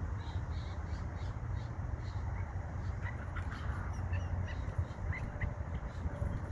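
A mixed flock of water birds calling, many short high calls overlapping, over a steady low rumble.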